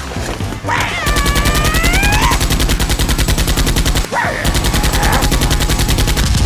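Rapid automatic-gunfire sound effect in two long bursts, the first starting about a second in and the second just after four seconds, with a brief break between them.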